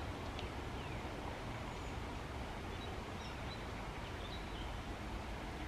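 Small birds chirping here and there in short, high calls over a steady outdoor hiss and low rumble.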